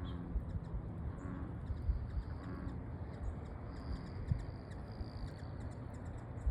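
Steady rain falling on a pond, with many scattered small drop ticks and low rumbling thumps. A faint, high, drawn-out call sounds in the middle.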